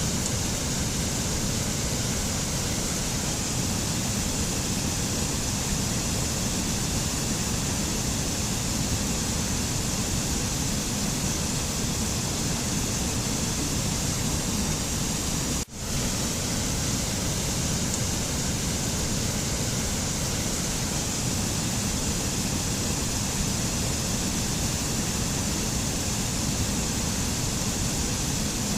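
Steady rushing nature ambience of even noise with no pitched sound in it. It briefly cuts out for a split second a little past halfway, then resumes unchanged.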